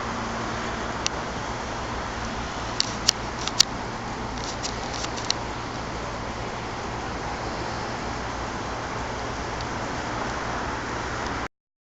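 Steady rushing road noise of a moving vehicle with a low hum underneath and a few sharp ticks in the first several seconds. It cuts off suddenly near the end.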